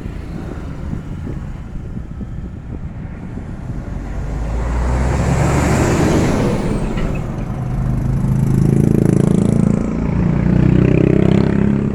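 Motor vehicles passing close by on a road. One sweeps past with a swell of road noise about halfway through, then a heavy engine drone is loudest near the end.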